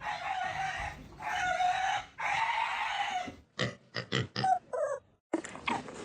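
An animal calling: three long, steady calls of about a second each, then a quick run of short calls that stops abruptly. After a brief silence, short high sounds start again near the end.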